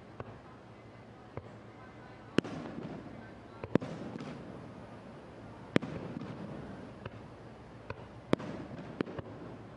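Firework shells bursting in the air: sharp bangs every second or two, the loudest about two and a half, four, six and eight and a half seconds in, over a steady murmur of crowd voices.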